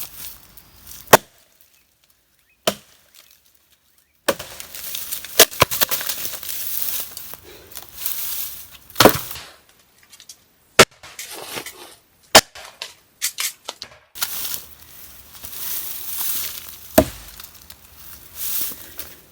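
Sharp chopping strikes, about six of them at irregular intervals, with rustling and scraping noise between. The sound drops out to dead silence twice.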